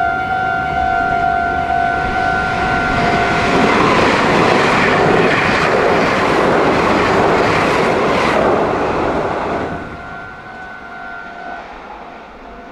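A level-crossing warning bell gives a steady two-tone alarm, then a Meitetsu 2200 series limited express passes close over a steel girder bridge. Its loud rush of wheels and running gear covers the bell for about six seconds and falls away sharply about ten seconds in. The bell is heard again, fainter, near the end.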